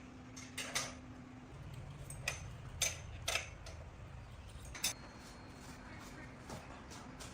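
About six sharp clicks and clinks of small hard objects over a low steady hum, with the loudest pair a little under three seconds in.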